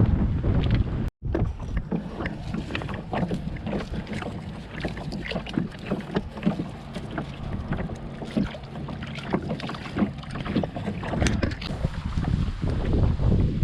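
Canoe being paddled: irregular paddle splashes and light knocks on the hull over a steady low rumble of wind on the microphone. The sound cuts out completely for a moment about a second in.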